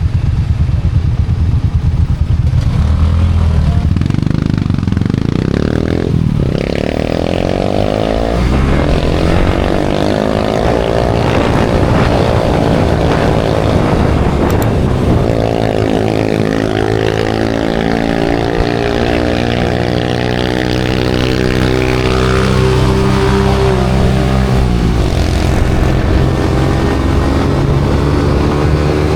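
A small engine speeds up over the first few seconds, then runs steadily, with its pitch dropping briefly near the end.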